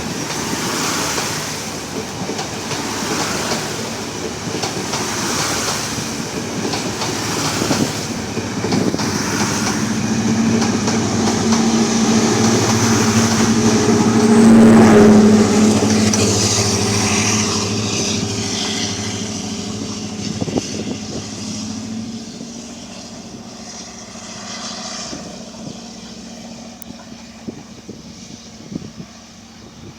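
Class S13A diesel multiple unit train passing on the rails, its wheels clacking over the rail joints in a regular rhythm at first. The diesel engine's steady drone swells to its loudest about halfway through, then fades away as the train recedes.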